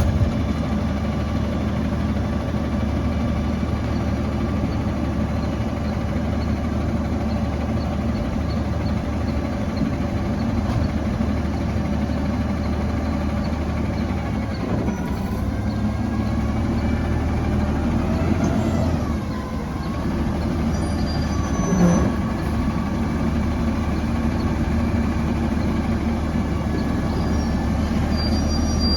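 Autocar ACX garbage truck's diesel engine running steadily. Its revs rise and fall for a few seconds around the middle, and there is a single clunk shortly after.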